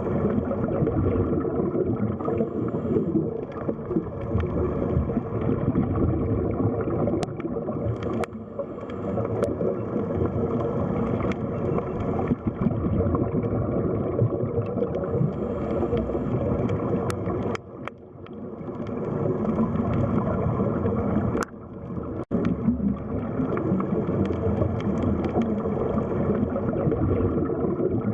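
Underwater sea ambience: a dense, muffled wash of moving water with gurgling, broken by a few sharp clicks and two brief drops in level past the middle.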